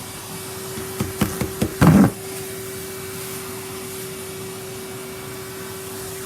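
Numatic Henry vacuum cleaner running with a steady whine. About a second in, a few sharp clicks and then a short loud clatter as debris is sucked up the hose.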